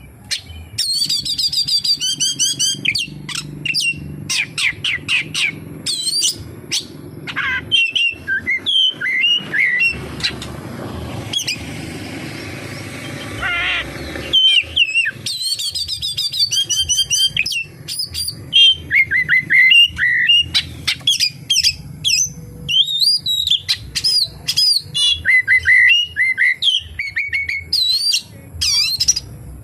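Oriental magpie-robin (kacer) singing a long, varied song of whistled phrases, quick trills and sweeping notes, with a harsh scratchy passage about a third of the way in; the song is stuffed with mimicked kapas tembak phrases. A low steady hum runs underneath.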